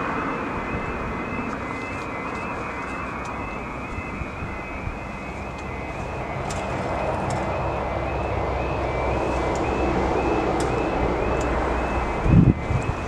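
Level crossing alarm warbling in a steady repeating two-tone pattern, about two cycles a second, over a broad rushing noise that grows stronger after the middle. Near the end come a few loud low buffets.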